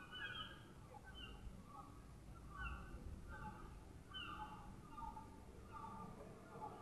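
Faint birds calling: short calls repeated one or two times a second, some falling in pitch, over a low steady background rumble.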